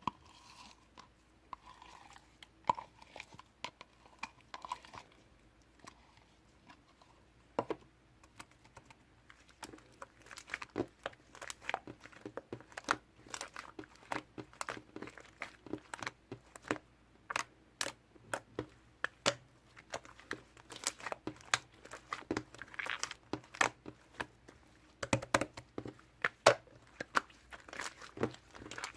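Slime being squished and poked by hand: a quiet start with a few faint clicks, then from about ten seconds in a busy, irregular run of small sticky pops and crackles.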